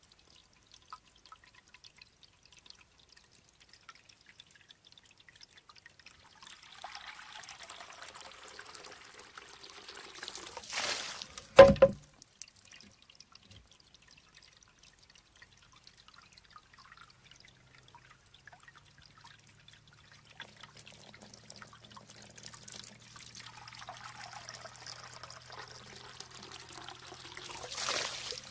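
Shishi-odoshi bamboo fountain: water trickles and pours into the bamboo tube, growing louder as it fills, until the tube tips and knocks sharply against its stone with a brief ring. This happens once about halfway through, and the cycle repeats with a second knock at the very end.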